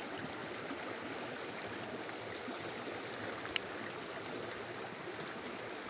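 Shallow stream water running steadily over rocks, an even rushing. A single small click sounds about halfway through.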